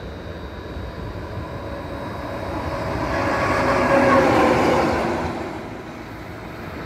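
A train passing by on the track, growing louder to a peak about four seconds in and then fading away.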